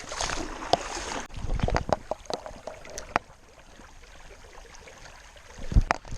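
Water splashing and sloshing, loudest in the first second or so, with scattered sharp clicks and knocks and a dull thump near the end.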